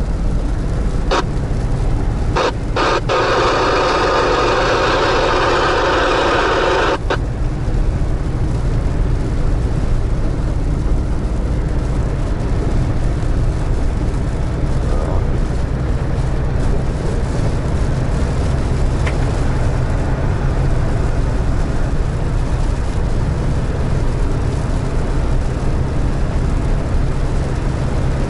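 Steady low drone of a GAZelle Next van driving, heard from inside the cab. Near the start, a CB radio gives a burst of loud hiss and crackle for about four seconds, opening and closing with sharp clicks.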